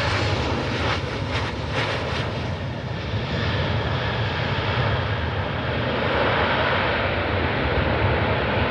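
Jet engines of a Boeing 737 airliner coming in to land, a steady roar with deep rumble that swells somewhat louder in the second half.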